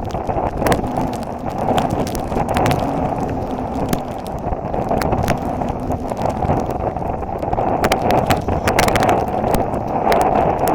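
Strong wind blowing across the microphone of a camera carried on a run, with footfalls clicking on the path throughout.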